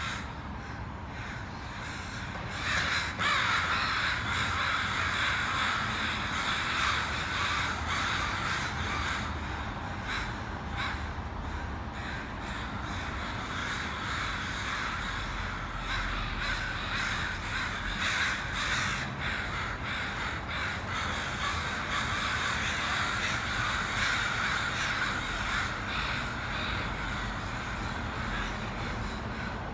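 A large flock of crows, about sixty birds, cawing all together in a continuous din of overlapping calls that grows denser about three seconds in.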